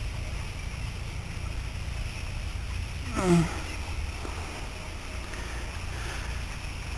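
Steady low rumble, like wind on the microphone, with one short voiced sound falling in pitch about three seconds in.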